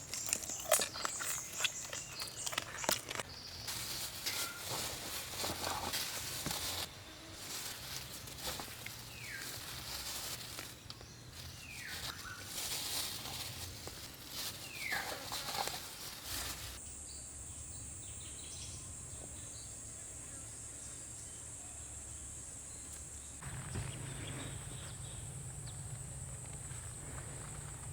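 Outdoor rural ambience: irregular rustling and crackling with three short descending bird-like calls about halfway through, then a steady high insect drone.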